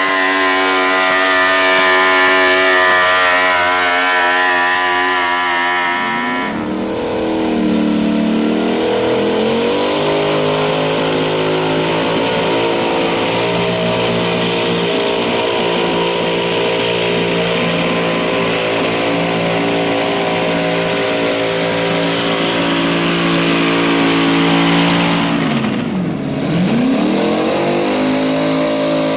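Modified pulling garden tractor's engine running hard at high revs. The engine speed sags sharply and climbs back about six seconds in, holds steady, then dips and recovers again near the end.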